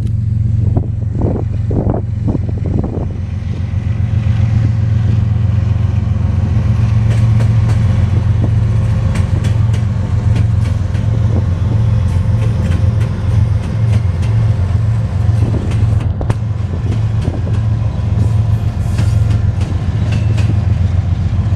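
Diesel freight train passing close by: a loud, steady low rumble with wheels clicking over the rail joints.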